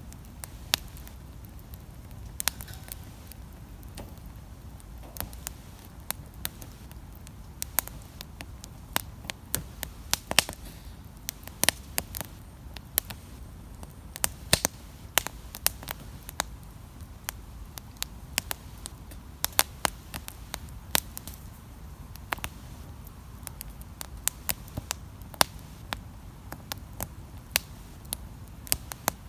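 Wood campfire crackling: irregular sharp pops and snaps, at times several a second, over a low steady rumble.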